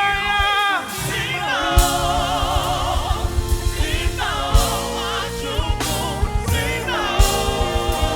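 Live gospel praise music: singers holding notes with vibrato over a full band, with fast drum hits driving underneath.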